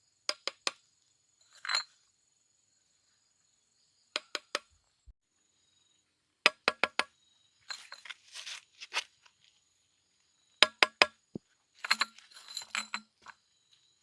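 Glass bottles clinking: sharp clinks in quick groups of three, repeated every few seconds, with short scraping between some of them. Insects shrill faintly and steadily.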